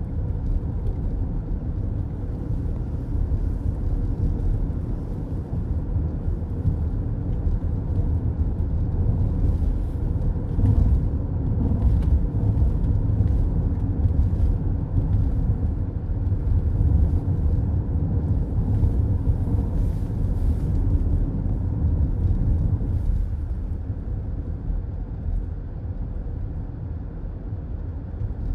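Steady road noise heard inside a moving car's cabin: a low tyre and engine rumble at highway speed, growing a little louder in the middle and easing off near the end.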